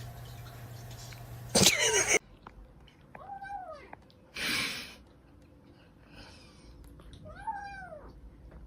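A domestic cat meowing: two drawn-out meows that rise and fall, about four seconds apart, with a short breathy burst between them. Just before them comes a brief loud sound over a steady hum.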